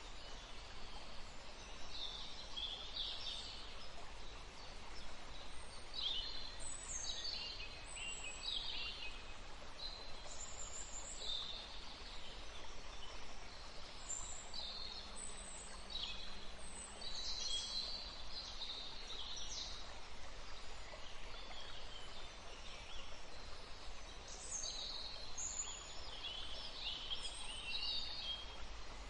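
Birds chirping and calling in clusters of short, high, falling notes over a steady background hiss.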